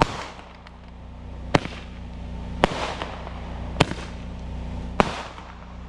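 Handheld Roman candle firing, with a sharp pop about every second as each shot is launched, each followed by a brief hiss. Five shots go off.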